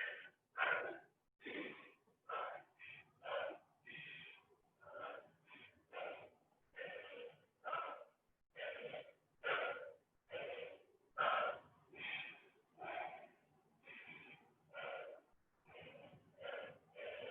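A person breathing hard and fast through a high-intensity burpee and knee-climber round, a quick loud breath about every three-quarters of a second.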